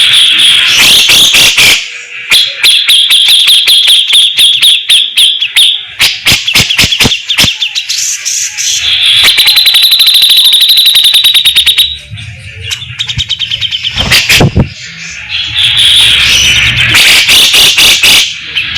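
Cucak jenggot bulbul calling hard: loud, harsh buzzing rasps (its 'besetan') lasting a few seconds each, alternating with fast rattling clicks.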